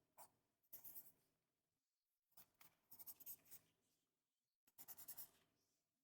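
Writing on paper in quiet, short scribbling strokes, in three or four brief bursts with pauses between them.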